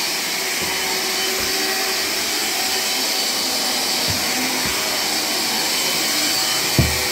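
Battery-powered cordless vacuum cleaner running steadily with a high-pitched hiss and whine. A few dull knocks sound through it, the loudest near the end.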